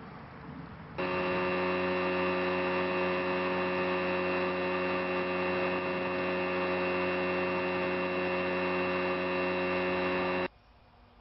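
A loud, steady hum made of several fixed tones, switching on abruptly about a second in and cutting off abruptly near the end.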